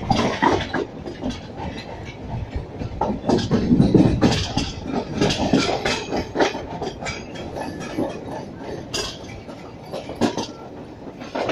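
A train running at speed, heard from aboard a passenger coach: a steady rumble with irregular clatter of the wheels over the rails, swelling louder about four seconds in.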